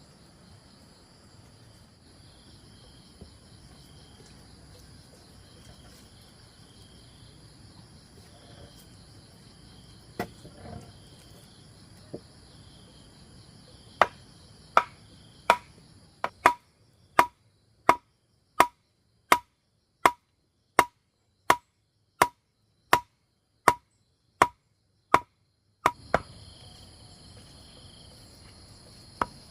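Insects trilling steadily. About halfway through, a hand tool starts striking wood or bamboo at an even pace, about one and a half blows a second, each blow giving a short ringing knock. The insect sound drops out while the blows go on and returns near the end.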